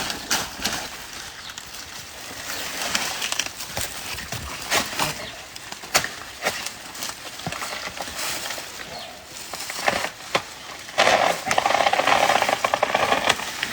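A blade chopping into a banana plant's fleshy stalk to cut down a ripe bunch: irregular sharp strikes, then a louder stretch of rustling near the end.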